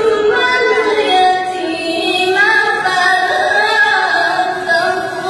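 A girl's high voice in melodic Quran recitation, holding one long drawn-out phrase that glides slowly up and down in pitch.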